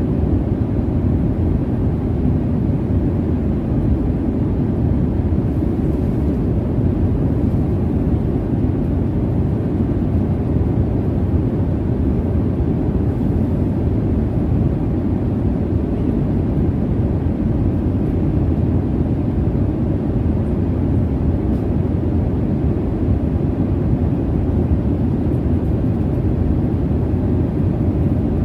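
Jet airliner cabin noise: a steady, deep rushing drone that does not change.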